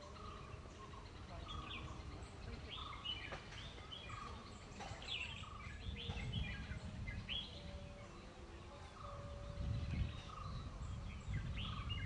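Birds chirping at dusk: short, sharp calls that sweep down in pitch, repeated every second or two, with a few faint held notes lower down, over a low rumble.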